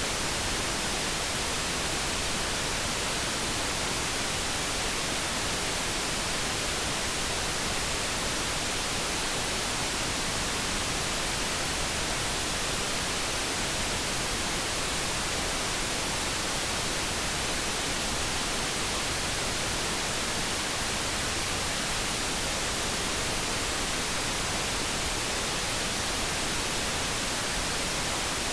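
Steady, unchanging generated noise with an even hiss, no tones or changes in level.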